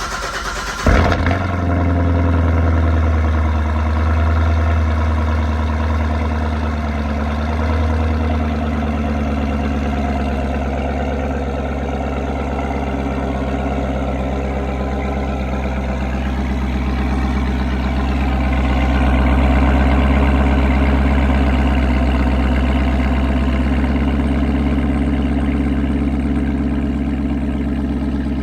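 Callaway C7Z Corvette's supercharged V8 just after start-up, running through an Akrapovic exhaust: it flares briefly about a second in, then settles into a steady, deep idle.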